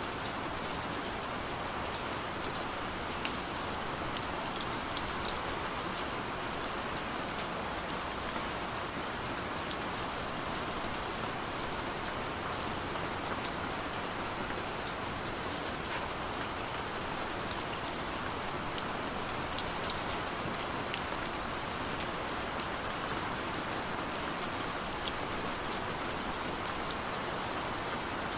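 Steady gentle rain falling, an even hiss with many small scattered drop ticks.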